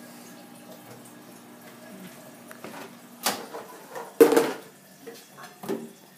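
Microwave oven running with a steady low hum that stops about three seconds in, followed by a few sharp knocks, the loudest about a second later.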